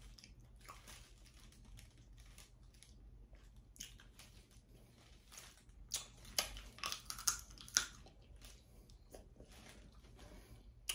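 A person chewing seafood close to the microphone, with wet mouth sounds and scattered clicks and crackles from hands working the food; the loudest bursts come about six to eight seconds in.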